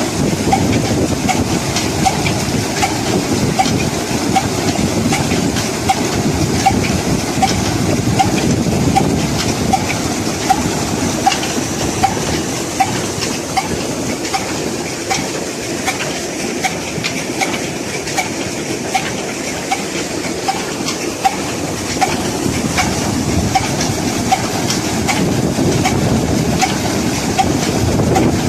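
Old Ruston Hornsby diesel engine running steadily, a dense low running noise with a regular click repeating about one and a half times a second.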